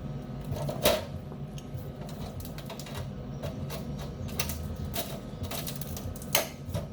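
Scattered clicks and clanks of a metal clamp and steel workpiece being handled, with two sharper knocks about a second in and near the end. A steady low electrical hum runs underneath.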